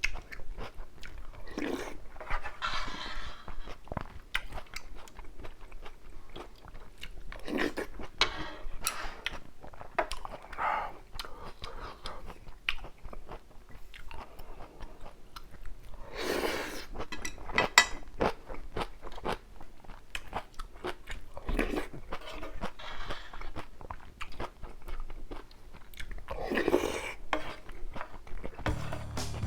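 Close-miked eating: chewing and crunching kimchi with ramyun and rice, a louder mouthful every few seconds among many small mouth clicks.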